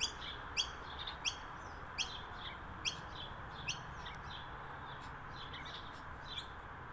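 Backyard birds chirping: a string of short, sharp, downward-sweeping chirps, roughly one a second, thinning out after about four seconds, over a steady background hiss.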